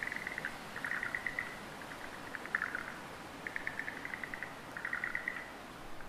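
A bird calling in short, rapid trills, about five of them, each under a second long with brief gaps between, over a faint steady background hiss.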